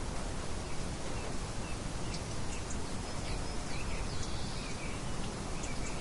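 Birds chirping in short, scattered calls starting about two seconds in, over a steady background hiss.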